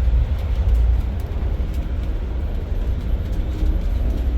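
Steady low rumble of an Amtrak passenger train in motion, heard from inside the car.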